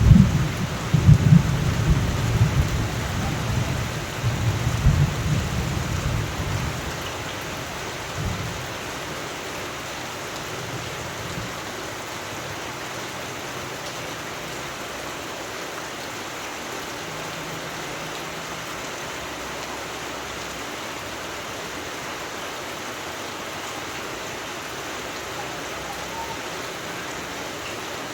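Steady rain falling, with a roll of thunder rumbling through the first several seconds and fading away, leaving only the even hiss of the rain.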